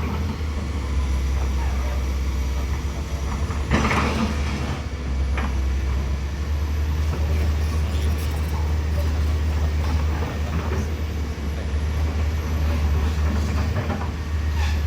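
Heavy truck engine running steadily with a low rumble, with a short burst of noise about four seconds in.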